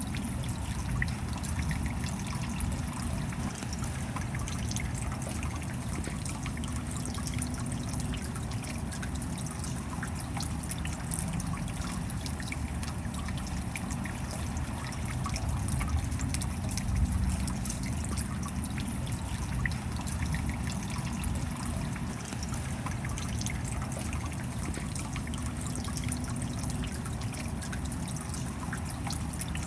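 Steady rain, with water trickling and dripping and many small drop ticks over a low, even wash of noise.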